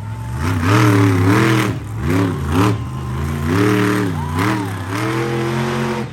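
Monster truck engine revving hard up and down through several surges, its pitch climbing and dropping repeatedly during a freestyle run.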